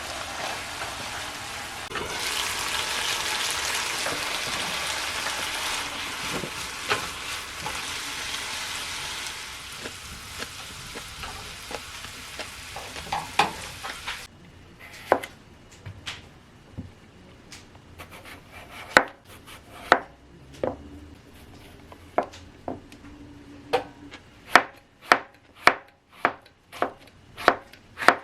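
Food sizzling in a frying pan, which cuts off about halfway. It is followed by a knife chopping on a cutting board in sharp separate strokes that come faster toward the end.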